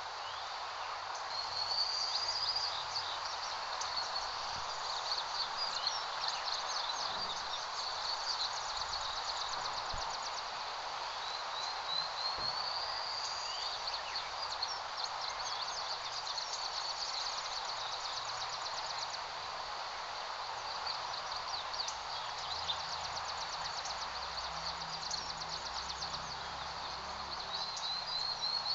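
Steady breeze noise, with small birds chirping and trilling in short, high-pitched phrases that recur every several seconds.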